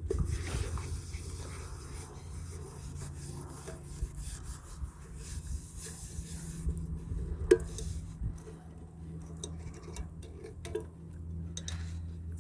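Cloth rubbing and scrubbing on a surface, with scattered light knocks and one sharp click about seven and a half seconds in, over a steady low hum.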